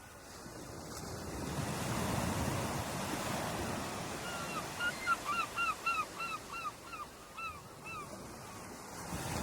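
Ocean waves breaking and washing on a shore, swelling over the first couple of seconds. About four seconds in, a bird calls a quick series of around a dozen short hooked notes, about three a second, over the surf.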